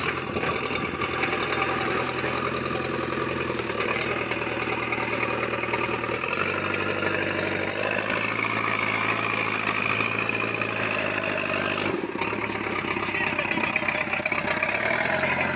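Backhoe loader's diesel engine running steadily, its note shifting in pitch a few times: about 6 seconds in, about 12 seconds in, and near the end.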